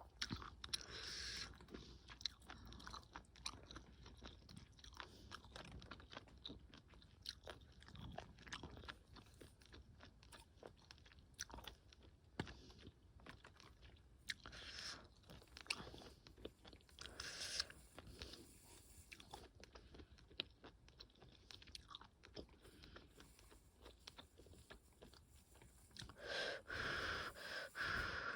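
Quiet close-up eating of octopus ramen: chewing with scattered small clicks and crunches, louder for a couple of seconds near the end.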